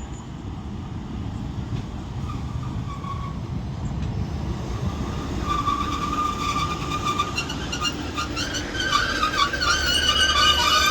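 Northern Class 156 diesel multiple unit pulling into the platform, its rumble growing louder. About halfway through, a high squeal comes in, and over the last few seconds it becomes several squealing tones as the train brakes to a stop.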